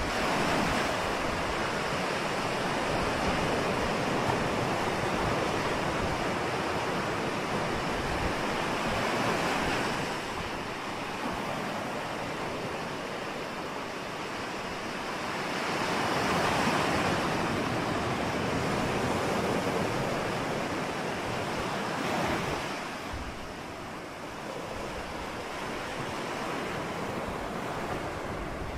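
Ocean waves breaking and washing on the shore, with wind in the background, the surf swelling and easing several times, about every six to eight seconds.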